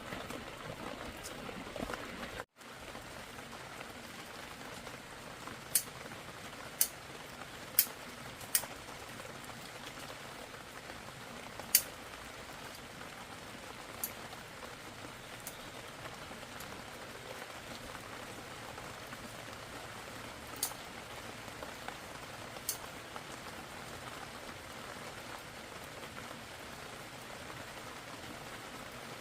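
Steady rain falling, with a scattering of short sharp clicks and ticks about a second or more apart.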